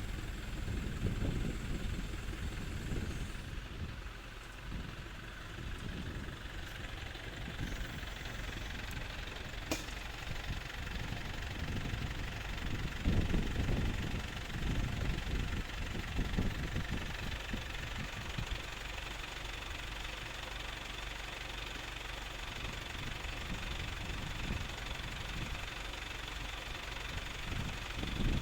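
Engine of an Ajax Argo 2000 self-loading concrete mixer idling steadily, swelling louder for a few seconds near the middle, with one sharp click about ten seconds in.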